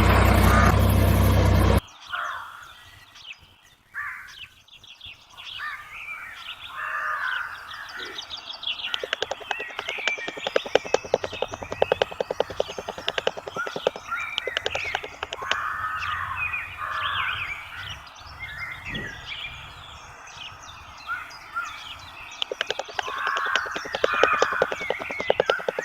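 A loud steady motor hum cuts off abruptly about two seconds in, followed by birds chirping and calling, with stretches of rapid clicking.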